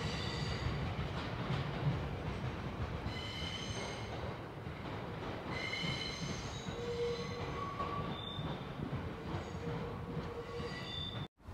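JR East 701 series electric multiple unit moving slowly during a shunting move, with a steady rumble from the wheels on the rails. High-pitched wheel squeals come and go four times.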